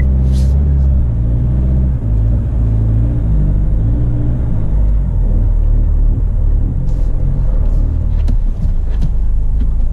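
Car driving, heard inside the cabin: a loud, steady low rumble of engine and road noise, with the engine note rising and falling. A few sharp knocks or rattles come near the end.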